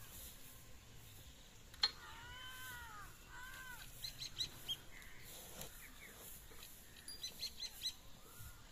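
Birds calling in the open: two rising-then-falling calls about two seconds in, then quick runs of short, high chirps around four seconds and again near the end. A single sharp knock just before the first call is the loudest sound.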